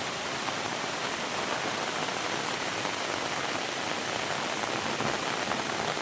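Heavy rain falling steadily: a dense, even hiss of many small drop impacts.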